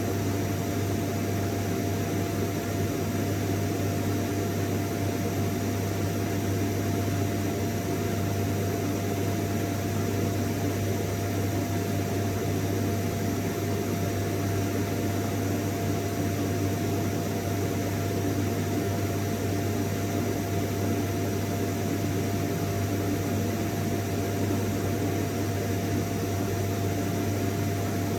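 Vacuum cleaner running steadily: an even rushing noise over a strong low hum, with a thin steady tone above it, unchanging throughout.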